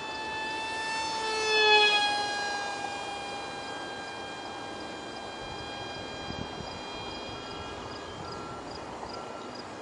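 The tiny 8mm direct-drive electric motor and propeller of an ultra micro RC plane in flight, giving a high-pitched whine. It is loudest as the plane passes close less than two seconds in, then the pitch drops a little and holds steady.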